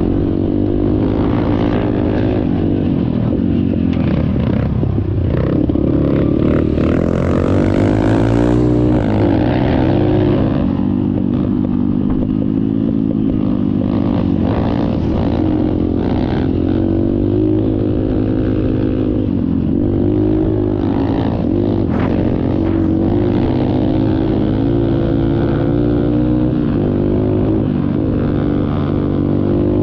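Dirt bike engine running under way. Its pitch rises and falls again and again as the throttle is opened and closed, with a few deeper dips and climbs.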